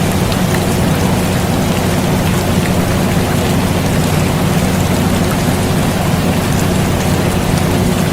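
Steady air-conditioner hum, a low drone with a few held tones, mixed with the even hiss and patter of falling rain.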